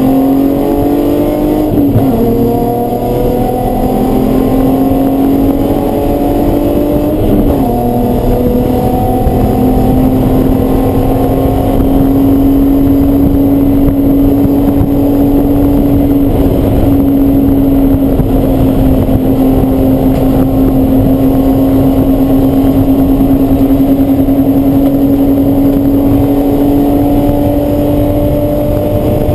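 Race car engine running hard under load. It shifts up twice, about two and seven seconds in, then holds steady high revs with the pitch creeping slowly up.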